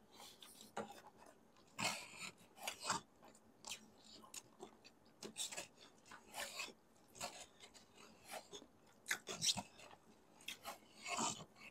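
Close-miked chewing and mouth noises of someone eating noodles, coming as irregular short bursts and clicks.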